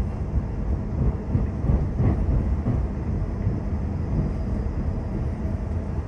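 Passenger train running: a steady low rumble of wheels on the track.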